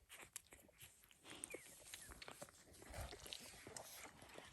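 Near silence with faint rustling and small clicks from newborn Dalmatian puppies being handled, and a brief faint puppy squeak about a second and a half in.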